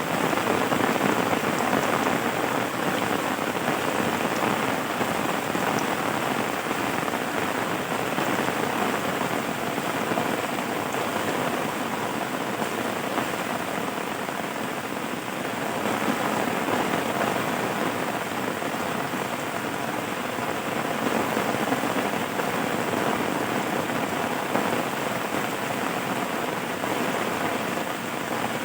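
Steady rain falling on a surface, an even hiss with no thunder.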